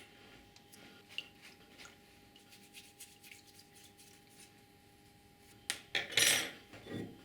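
Small hard objects handled on a work surface: scattered light clicks and taps, then a brief, louder scraping rub about six seconds in and a soft thud just before the end.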